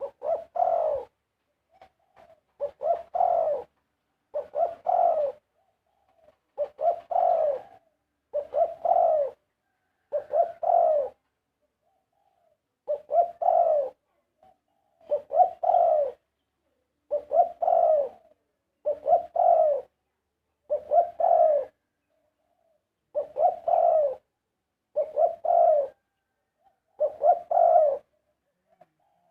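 Spotted dove cooing: a low phrase of two or three notes, repeated about every two seconds.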